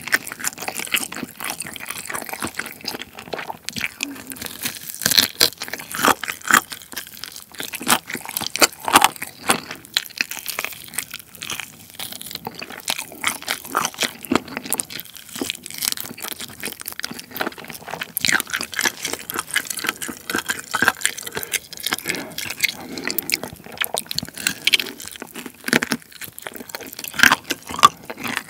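Close-miked eating of mala-sauced chicken: meat bitten off the bone and chewed, with many irregular wet clicks and smacks.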